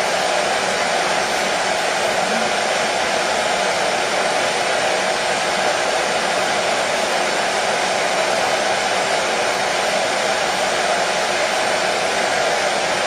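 Hair dryer running continuously at a steady speed, an unbroken rushing noise of fan and airflow used as white noise for a baby's sleep.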